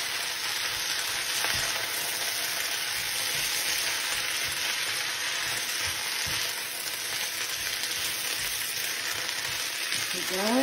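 Water spinach (kangkung) and bean sprouts sizzling in a hot frying pan as they are stir-fried, a steady frying hiss with faint knocks of the utensil turning them.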